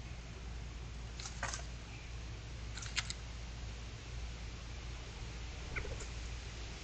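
Short animal chirps and clicks over a steady low hum: a brief double chirp about a second in, a louder clicking cluster about three seconds in, and a short falling call near the end.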